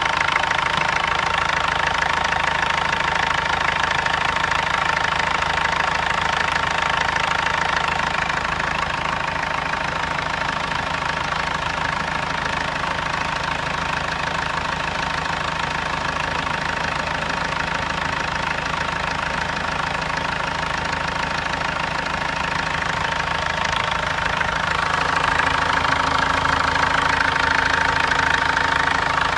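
Car engine running steadily with a knock, said to be a camshaft knock. It gets a little louder about 25 seconds in.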